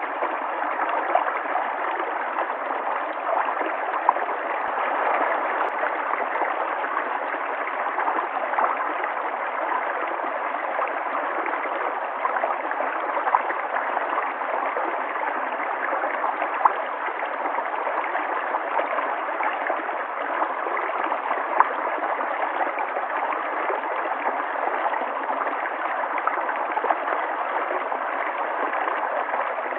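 River water flowing and gurgling steadily over rocks, with small splashes scattered throughout.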